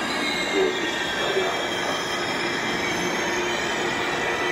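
ICE high-speed train running slowly past along the platform, a steady rumble with a constant high-pitched squeal from the running gear.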